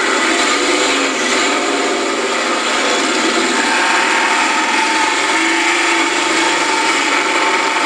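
Mud-bog truck engine held at high revs, a loud, steady running note as it drives through a mud pit.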